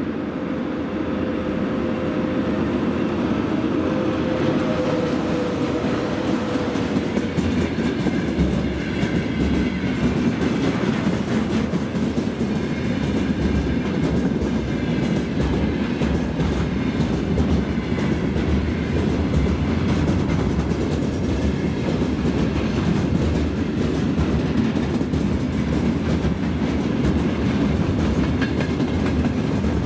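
Freight train rolling past at speed, its steel wheels clattering over the rail joints in a steady, continuous din. A faint whine falls slightly in pitch and fades out over the first several seconds.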